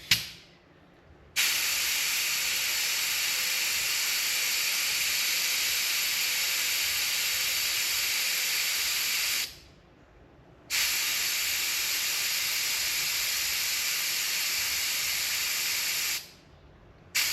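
Air hissing out of a motorcycle's rear tyre valve as it is let down from 38 psi toward 30 psi. There is one long steady release, a pause of about a second, a second long release, and a short puff near the end.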